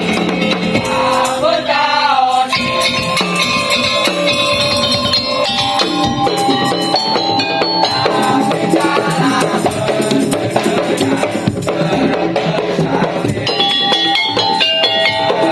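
Madurese tong-tong (musik daul) ensemble playing: percussion with drums and rattles under a held melody line that bends in pitch about two seconds in.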